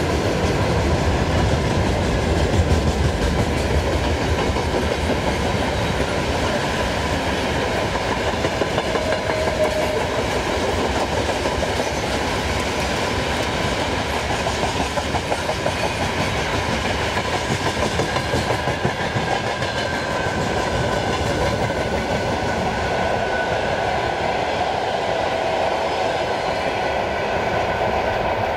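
Freight train wagons rolling past close by: steady clatter of steel wheels on the rails as tank cars and open gondola wagons go by.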